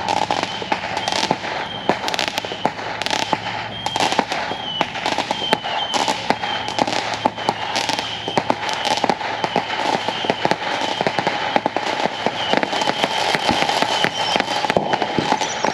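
Consumer fireworks going off without a break: rapid, dense crackling pops, with a thin high whistling tone coming and going through them.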